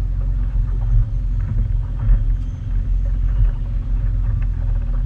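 Motorboat running underway: a steady low rumble of engine and hull noise.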